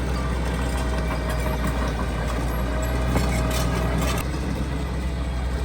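Heavy diesel earthmoving machinery running steadily under a deep, constant engine hum, with a faint whine and a few sharp clatters about three to four seconds in.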